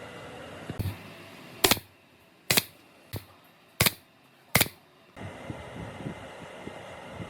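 A series of five sharp knocks or taps, irregularly spaced less than a second apart, after a softer thump, over a steady background hiss.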